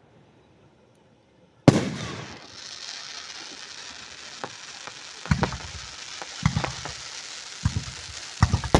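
Aerial firework shells bursting directly overhead: after a moment of quiet, a sharp bang, then a long crackling hiss from crackle effects, with several more booms in the second half.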